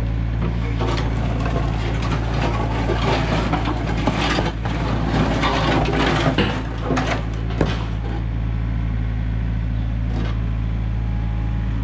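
Heavy diesel machinery running steadily while broken concrete slabs scrape, crunch and knock against one another.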